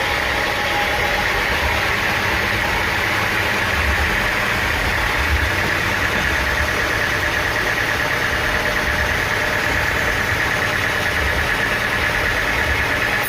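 Sawmill engine running steadily, with a constant high whine over a low throbbing.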